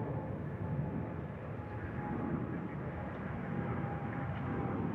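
Jet engines of a departing Boeing 787 Dreamliner: a steady rumble with a faint thin whine over it.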